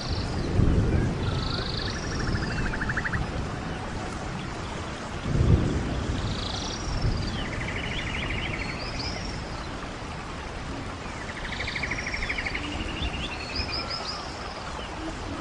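Rainforest ambience: a songbird repeats the same phrase three times, each made of arching high notes and a fast trill, over a steady low rumble that swells twice.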